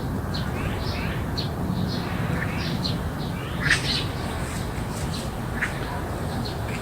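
Small birds giving short, repeated chirps in a garden, with one louder call about halfway through, over a steady low background rumble.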